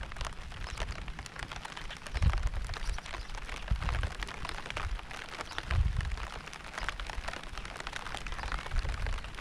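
Rain falling steadily, a dense spread of small drop hits, with a low rumble swelling up about two seconds in and again near six seconds.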